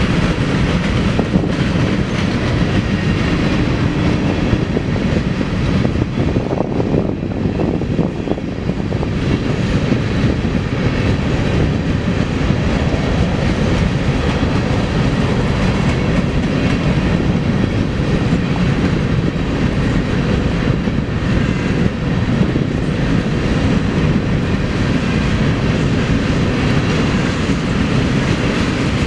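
A long BNSF freight train's cars rolling past close by: steady, unbroken wheel-on-rail noise and rumble of the moving train.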